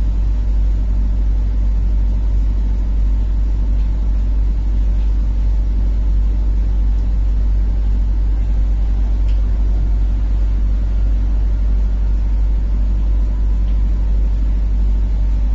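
Steady low rumble and drone of a KA Prameks diesel railcar moving, heard from inside the carriage.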